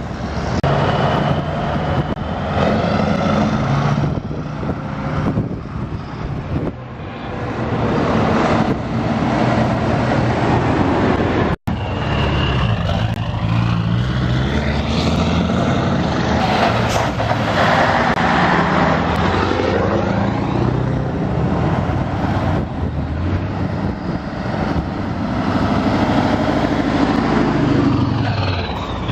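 Diesel engines of Scania trucks running as the trucks drive past, the pitch rising and falling with the engines; the sound drops out for an instant about a third of the way in.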